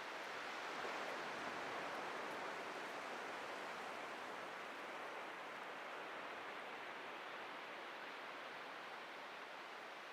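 Ocean surf washing on a beach: a steady hiss that swells about a second in and slowly eases off toward the end.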